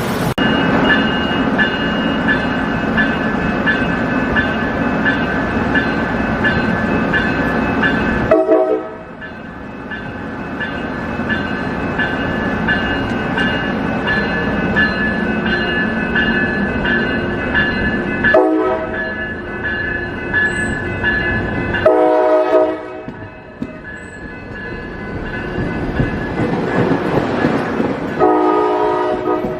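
Passenger train running past with steady rail noise, its air horn sounding four times: two short blasts, then two longer ones near the end.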